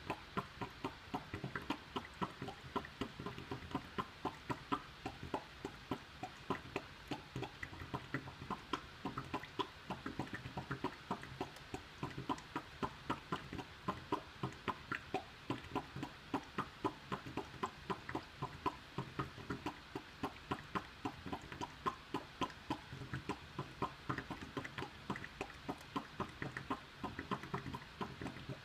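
Air conditioner making a rapid, irregular popping or clicking, about three to five pops a second, that keeps going. It is the abnormal noise of an airtight room where air is drawn in through the unit's damaged duct; it stops when a window is opened.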